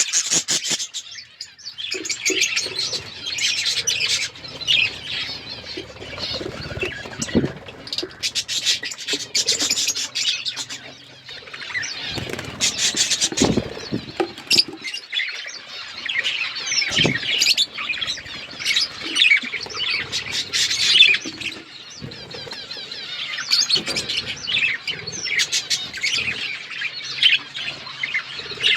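A flock of budgerigars chirping all at once, many overlapping high chirps without a break, with a few short rustles now and then.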